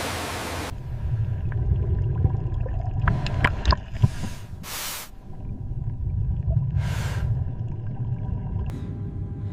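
Low underwater rumble around a scuba diver, with a few sharp clicks and knocks about three to four seconds in and two short hisses of the diver's regulator breathing.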